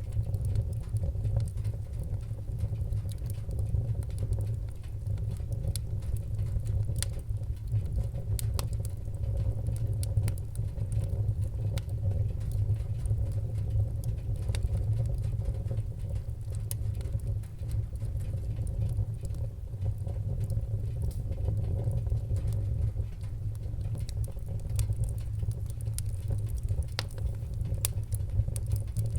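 Wood fire crackling in a fireplace, with frequent small irregular pops and snaps over a steady low rumble.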